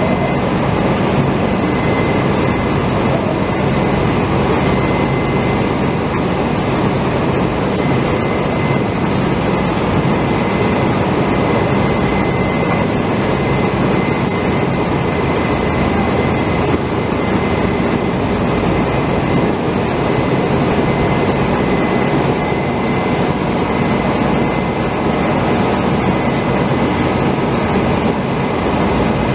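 Steady, loud drone of heavy running machinery with a thin constant whine above it, unchanging throughout.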